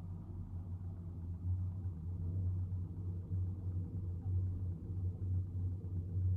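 A low, steady rumble that swells and dips in level every second or so, with little high-pitched sound above it.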